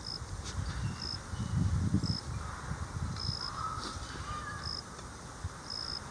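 An insect chirps in short, high, evenly spaced pulses about once a second, and a crow caws twice around three to four seconds in. Under them runs an uneven low rumble, loudest about two seconds in.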